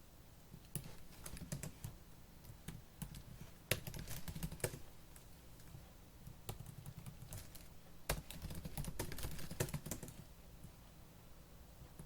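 Fast typing on a laptop keyboard: rapid runs of light key clicks, with short pauses between bursts, thinning out near the end.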